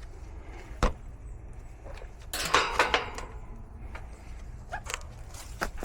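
Tools and metal parts handled at an air-conditioning unit: a sharp click, then a short stretch of clattering and rattling, then a few lighter clicks, over a steady low hum.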